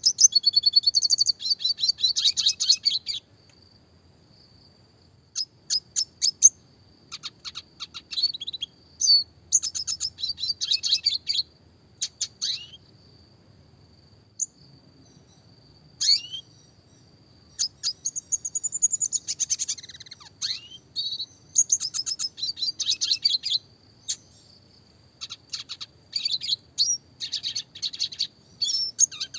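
Red siskin singing: repeated phrases of rapid, high-pitched twittering and rolling trills, each from under a second to several seconds long, broken by short pauses.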